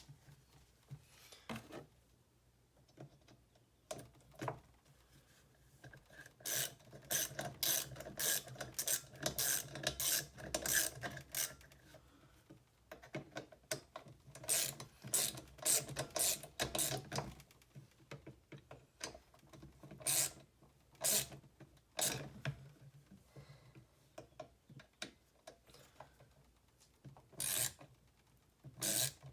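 Runs of quick mechanical clicks, several a second and lasting a few seconds each, with scattered single clicks between them and a low hum under the longer runs.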